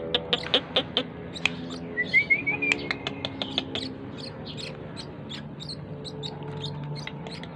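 Asian glossy starling (cucak keling) calling: a fast run of sharp, high chirps, a short stepped rising phrase about two seconds in, then more scattered chirps.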